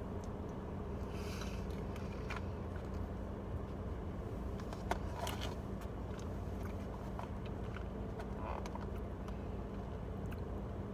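Steady low hum inside a car, with a person chewing a soft chocolate dessert: quiet mouth sounds, small clicks and a few brief rustles.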